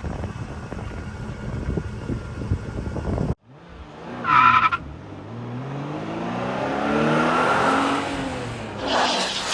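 A vehicle engine running with a rough rumble that cuts off suddenly. A short high squeal follows, then the engine's pitch rises and falls over several seconds.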